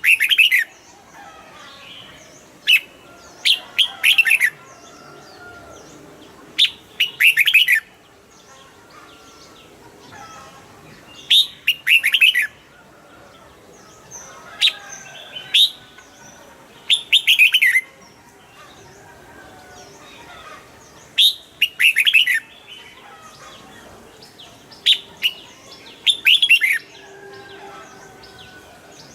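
Red-whiskered bulbul singing: short, loud phrases of quick chirps, repeated about every three to four seconds, with fainter chirps between them.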